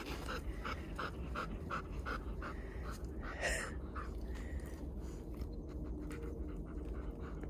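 A dog panting with rapid, even breaths, about three a second, with one short louder noise about three and a half seconds in.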